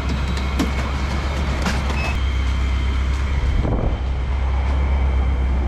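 Steady low hum of a vehicle engine running, with a few short clicks over it.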